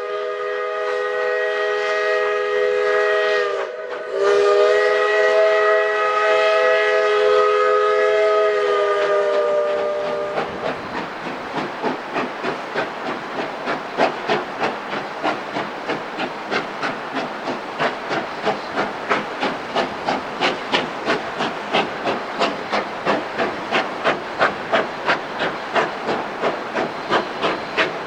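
Steam locomotive sounding a multi-note chime whistle twice, a short blast and then a longer one. The whistle gives way to the rhythmic exhaust chuffs and hiss of the engine working, about two to three chuffs a second.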